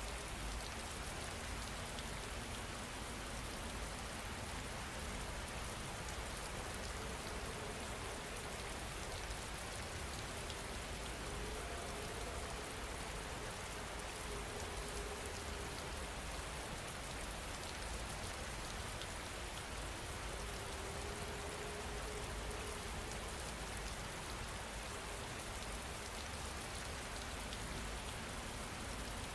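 Steady rain falling, an even hiss of drops, mixed with faint fireplace crackle.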